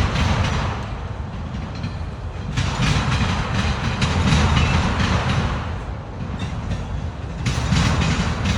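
CSX freight train's cars rolling slowly past with a steady low rumble and wheels clacking over rail joints; the clatter fades out twice and comes back.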